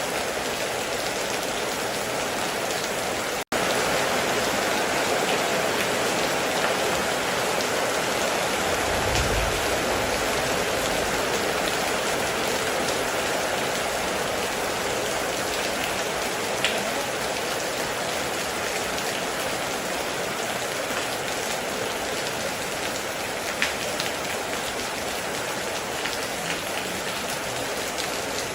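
Heavy rain falling steadily on a metal roof, a dense even hiss of drops. The sound cuts out for an instant about three and a half seconds in, and a brief low rumble comes about nine seconds in.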